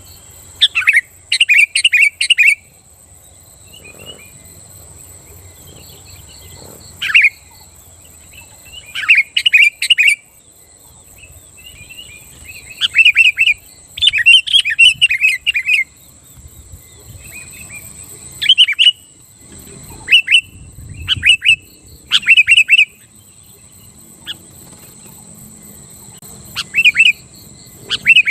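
Sooty-headed bulbul (kutilang) singing loud, fast phrases of bubbly chirping notes, a phrase every few seconds, over a faint steady high-pitched whine.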